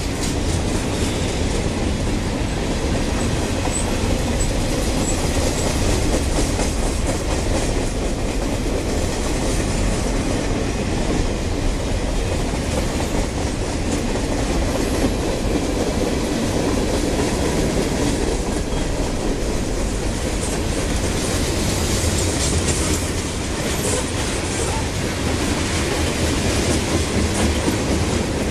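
Freight cars of a passing train rolling by close at hand: the steady noise of steel wheels running on the rails.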